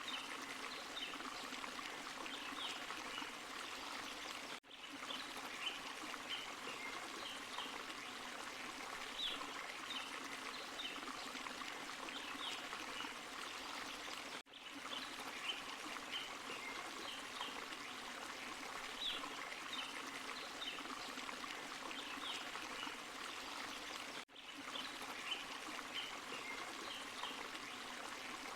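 Small forest waterfall and stream splashing steadily over rocks, with light splashes. It dips out briefly three times, about ten seconds apart.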